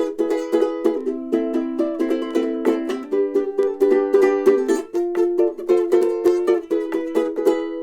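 Ukulele strummed in a quick, steady rhythm, playing chords without singing.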